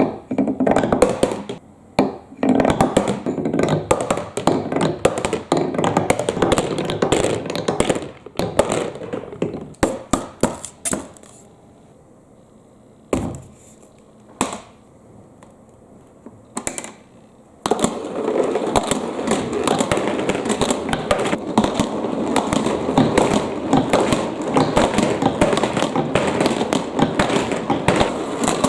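Marbles rolling and clattering down a marble run's tracks in a dense rattle of clicks and knocks. The rattle thins to a few separate knocks a little before halfway, then picks up again as a continuous clatter about two-thirds in.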